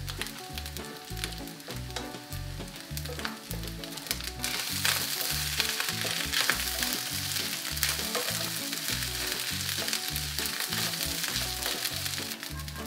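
Scrambled egg and rice sizzling in a hot cast iron skillet. The sizzle grows louder about four seconds in, as a wooden spatula starts stirring the egg through the rice. Background music with a steady bass line plays throughout.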